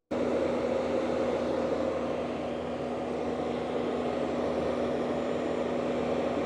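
Heavy-equipment diesel engine running at a steady speed with a constant hum, after a momentary break at the very start.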